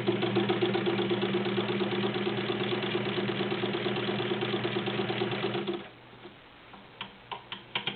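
Vintage Necchi BU all-metal sewing machine running smoothly at a steady speed while stitching a zigzag: its 1.1 amp motor hums under a rapid, even ticking of the needle mechanism. It stops about six seconds in, followed by a few light clicks near the end.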